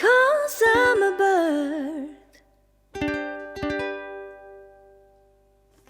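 A woman's voice holds a last wordless sung phrase with vibrato over ukulele. Then two closing strums on an Ortega RUWN-CE ukulele ring out and fade away, ending the song.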